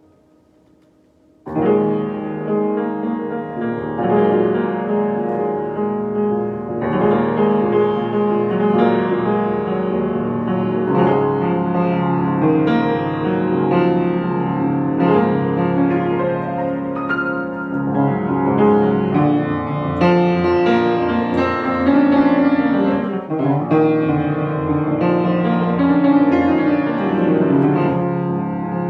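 Solo piano playing an improvisation, starting about a second and a half in with full chords that ring on.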